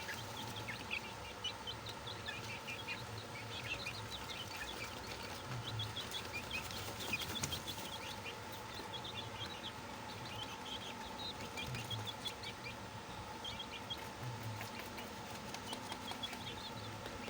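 A group of chicks peeping: many short, high chirps overlapping without a break, over a faint steady hum.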